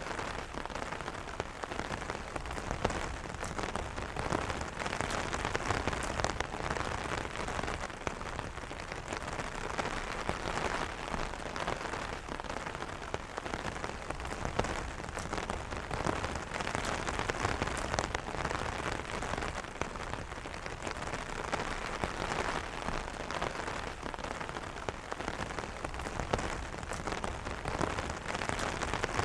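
Steady rain pattering on a fabric umbrella canopy, a dense even patter of individual drop taps with no thunder.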